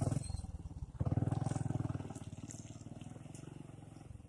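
Motorcycle engine running close by, surging about a second in and then fading as it moves away.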